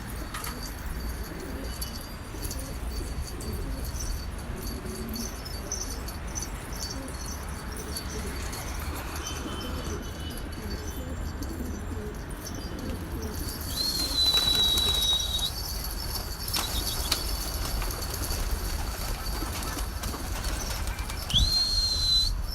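Domestic pigeons cooing, with bursts of wing flapping, over a steady low hum. Two short high whistles sound, one a little past the middle and one near the end.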